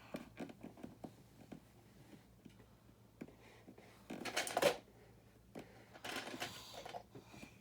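Small plastic building-brick parts being handled: scattered light clicks, with two short rattling bursts about four and six seconds in.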